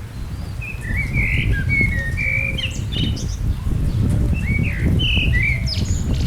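A songbird singing two bouts of quick chirped and slurred notes, the first about a second in and the second near the end, over a steady low rumble.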